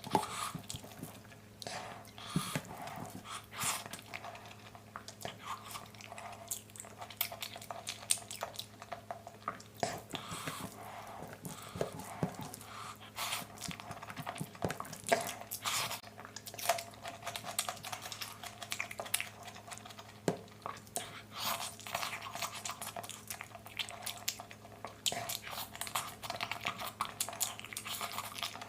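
Close-up chewing and biting, a run of irregular crunches and wet mouth clicks, as in a mukbang eating recording.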